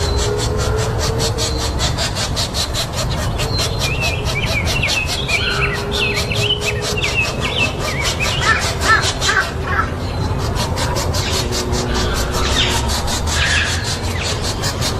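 Birds calling in a run of short, quick chirps over a steady rushing background with a fast, even pulse.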